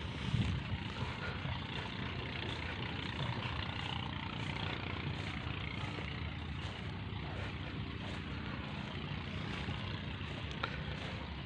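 A steady, engine-like drone over a constant background noise.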